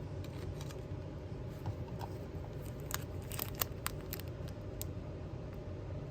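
Small, sharp clicks and taps from handling miniature craft materials, clustered about three to four seconds in, over a steady low hum.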